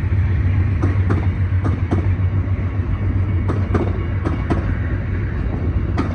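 Amtrak passenger train rolling past, with a steady low rumble and paired clicks every second or so as the wheel sets cross rail joints.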